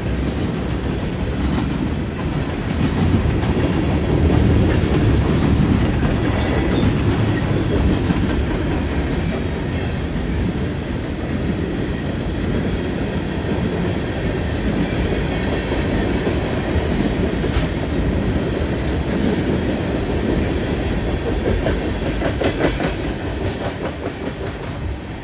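Freight train cars rolling past with a steady rumble, their wheels clicking over the track, with a run of sharper clicks late on.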